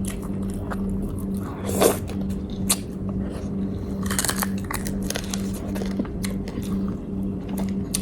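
Close-up eating sounds: biting and chewing with crisp crunches and wet clicks of the mouth, over a low steady hum.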